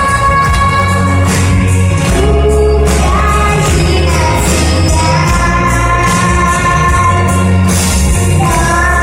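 A young girl singing a pop-style song over a backing track with bass and drums, holding long sustained notes.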